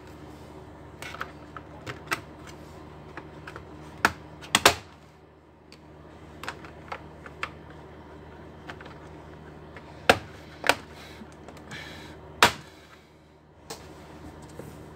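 Irregular sharp clicks and taps of a laptop's plastic casing and small parts being handled during reassembly, the loudest strikes about four and a half, ten and twelve and a half seconds in.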